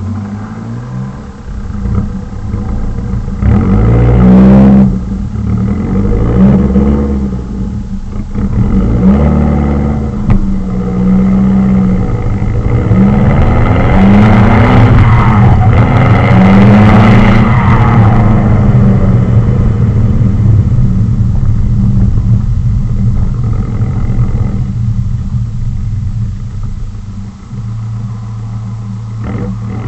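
Straight-piped Ford C-MAX exhaust under way, with a loud, raspy note as the car accelerates in several pulls, the pitch rising and then dropping at each gear change. The longest and loudest pull is about halfway through, after which the car settles into a steadier cruise.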